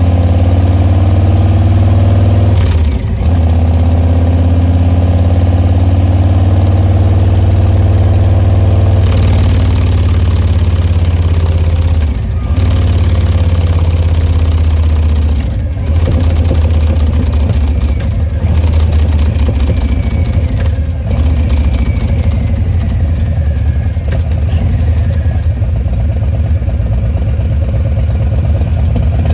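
Harley-Davidson 2021 Fat Boy 114's Milwaukee-Eight V-twin running at a steady idle through a Bassani Pro Street Turnout aftermarket exhaust. The deep exhaust note dips briefly a few times.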